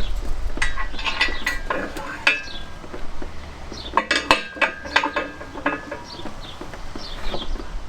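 Metal clinking and clanking, with sharp, briefly ringing strikes in two clusters: one in the first two seconds or so and another about four to six seconds in.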